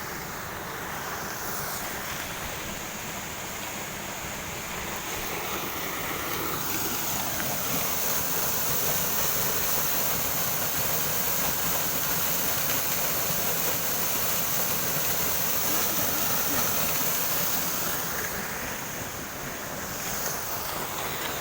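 Waterfall rushing: a steady wash of falling water that swells a little through the middle and eases again near the end.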